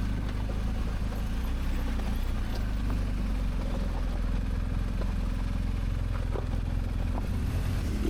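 BMW R1250GS Adventure's boxer-twin engine running steadily at low speed on a loose-rock trail, with a few faint clicks of stones under the tyres.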